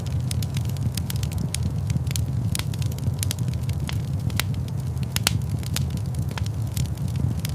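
Fire in a fireplace crackling, with sharp irregular pops several times a second over a steady low rumble.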